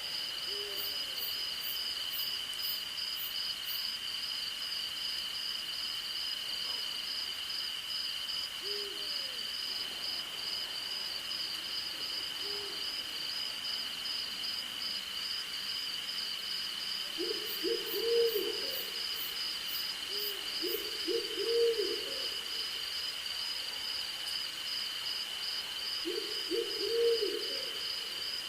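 Owl hooting: a few single low hoots in the first half, then three quick runs of several hoots each in the second half, the loudest sounds. Beneath them a steady high insect drone and a fast-pulsing cricket chorus run without a break.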